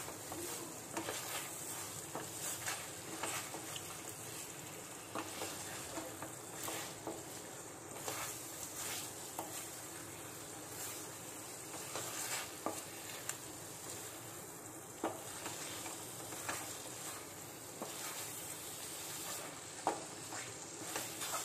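Thick egg masala frying with a steady sizzle in a pan while a spatula stirs and scrapes through it. The spatula makes frequent irregular scraping clicks against the pan, the sharpest about fifteen and twenty seconds in.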